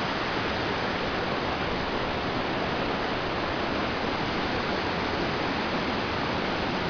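Waterfall of about 15 metres rushing steadily: an even, unbroken hiss of falling water.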